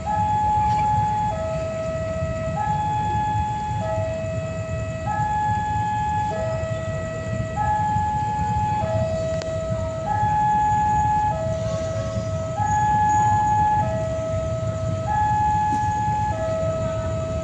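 Two-tone electronic warning alarm alternating steadily between a higher and a lower note, each held about a second and a quarter, over a low steady rumble.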